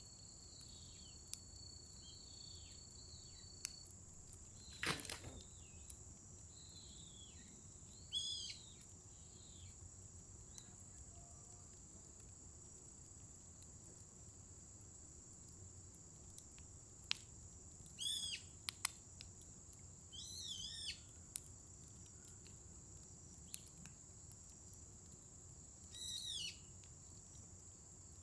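Wood fire crackling with scattered sharp pops, one stronger pop about five seconds in, under a steady high insect chorus. A bird calls in short bursts of quick descending chirps four times.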